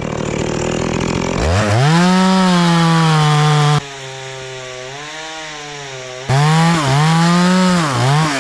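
Stihl two-stroke chainsaw revving up to full throttle and holding a steady high whine. It drops in level for a couple of seconds mid-way, then comes back with the revs dipping briefly twice near the end.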